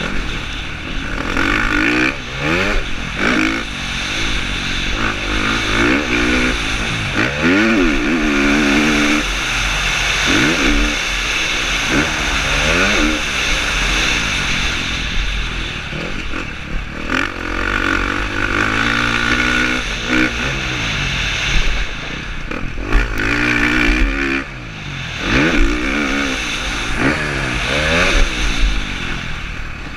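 KTM 350 SX-F's single-cylinder four-stroke engine revving up and dropping off over and over, its pitch rising and falling with the throttle and gear changes while racing, heard from a helmet camera.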